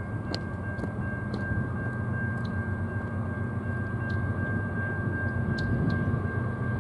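Low rumble of a distant approaching train, growing slightly louder, with a steady high tone running over it and a few short chirps.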